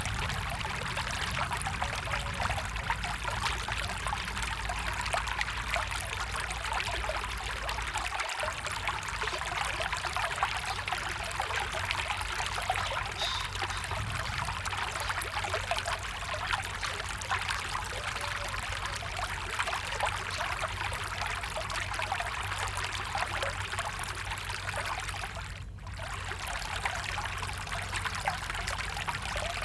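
A stream running steadily with splashing and trickling water. The sound dips briefly near the end.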